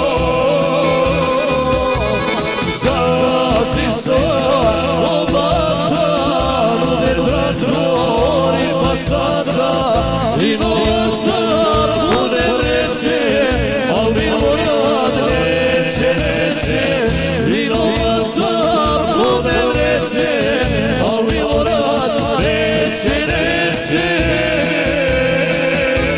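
Live folk band music led by accordion, over a steady beat.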